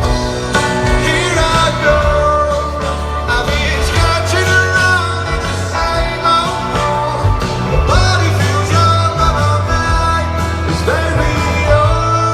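Rock band playing live, a lead vocal over guitars and a heavy bass line, heard through a fan's recording from the festival crowd.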